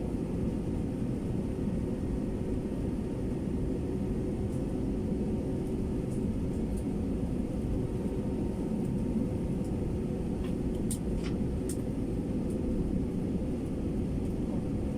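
Steady low rumble of a passenger airliner's engines and airflow heard inside the cabin, with a faint steady hum and a few faint high ticks.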